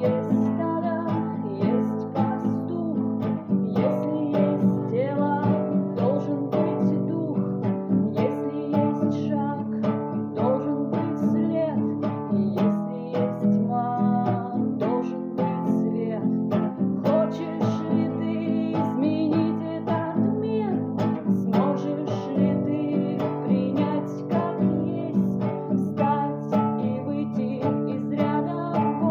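Acoustic guitar strummed and picked in a steady rhythm: an instrumental passage of a song.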